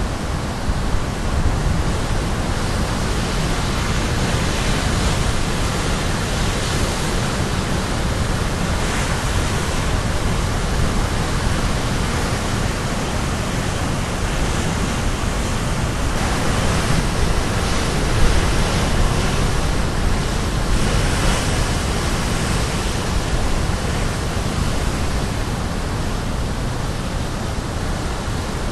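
Ocean surf: waves crashing and washing on the shore in a steady roar of noise, with louder surges every few seconds.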